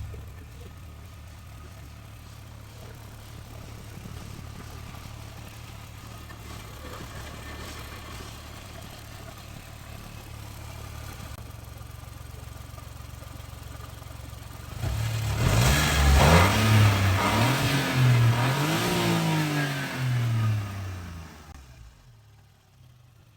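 Suzuki Jimny XG's three-cylinder turbo engine idling steadily through an aftermarket exterior muffler, then revved in several quick throttle blips, rising and falling in pitch. The sound goes quiet shortly before the end.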